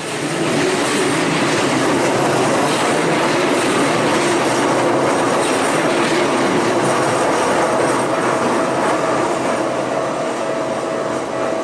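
Keikyu Line train passing close by over the level crossing: a loud, steady rumble and rattle of wheels on rails that comes up suddenly just after the start and eases off slightly near the end.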